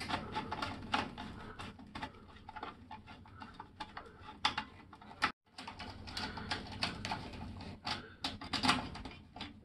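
Irregular small clicks and taps of hand work on a three-phase motor starter as overload heater elements are fitted in place, with a brief dropout of all sound about five seconds in.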